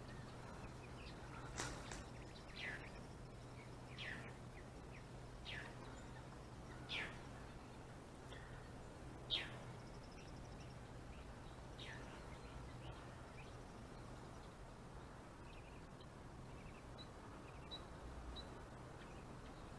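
A bird calling: a series of short downward-sweeping chirps, one every second or two, dying out after about twelve seconds, with a few tiny high ticks near the end. A faint low steady hum sits underneath.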